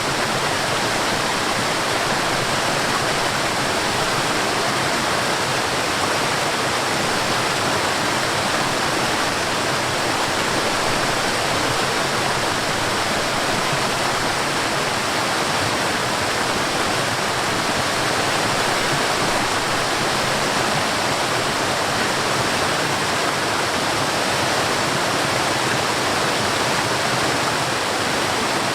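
Forest waterfall: a steady, dense rush of falling water, unchanging throughout.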